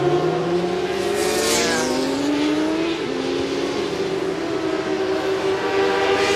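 Several racing motorcycle engines running at high revs. One climbs steadily in pitch for about three seconds, drops at a gear change, then holds; a bike sweeps past about a second in.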